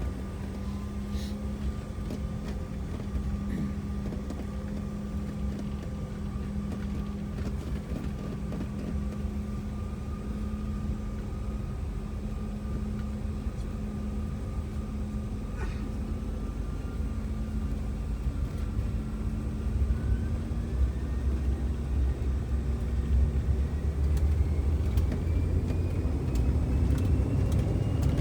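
Delta CRJ900 regional jet's GE CF34 turbofan engines running with a steady hum. About halfway through, a whine starts rising in pitch and the low rumble grows louder as the engines spool up toward takeoff thrust.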